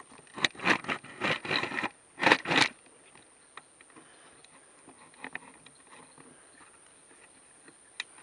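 Camera tripod being loosened and adjusted on its mount: a quick run of loud clicks, scrapes and rattles in the first three seconds or so, then a few faint handling clicks.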